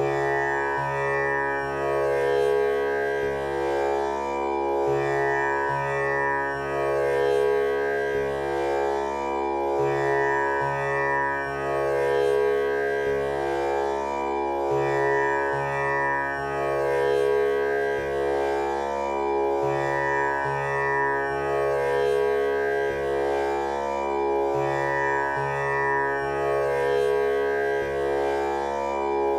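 Tanpura drone tuned to C# for a male voice, its strings plucked one after another in a slow repeating cycle, each note ringing on with a rich buzzing shimmer of overtones so that the sound never stops.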